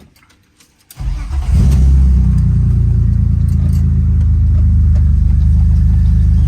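BMW E36 M3's straight-six engine cranking and firing up about a second in, then running at a steady idle.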